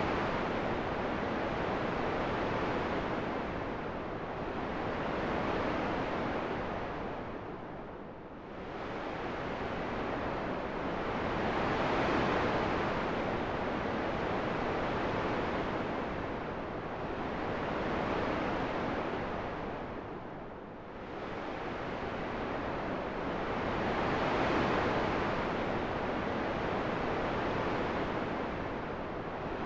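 Wind blowing in slow gusts, a steady rushing noise that swells and fades every few seconds, with two deeper lulls about eight and twenty seconds in.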